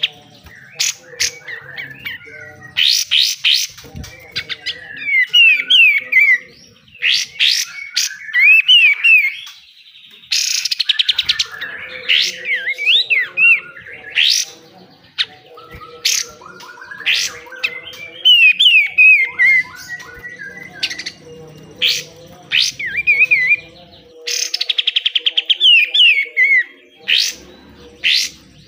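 Kapas tembak songbird singing in harsh, rapid rattling bursts (besetan) that alternate with quick looping whistled notes, phrase after phrase with short gaps. A faint steady hum runs underneath.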